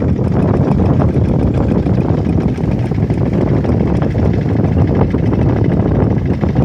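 Steady, loud low rumble of a running engine.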